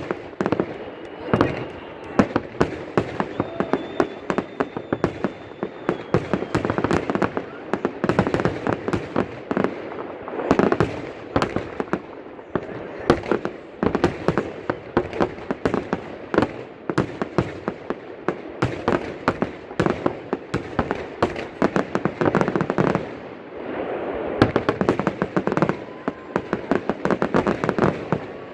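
Aerial fireworks display: a rapid, nearly continuous barrage of bangs and crackling, easing briefly near the end before picking up again.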